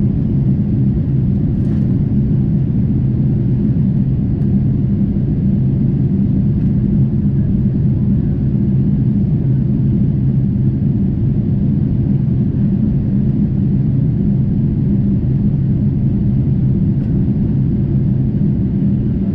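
Steady drone of a Boeing 747-8 in flight, heard inside the cabin: its GEnx engines and airflow make an even low rumble with a hum, unchanging throughout.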